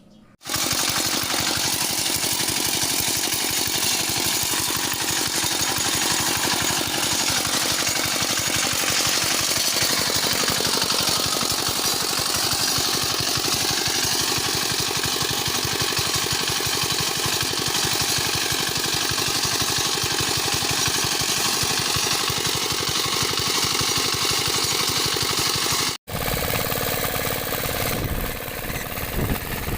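Small power weeder engine running steadily. About 26 seconds in the sound cuts out for an instant and comes back sounding different.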